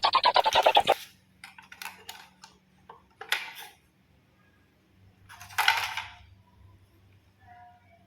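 Small hard toy pieces clinking and clattering as they are handled: a fast rattle in the first second, then scattered single clicks, and another clatter about five and a half seconds in.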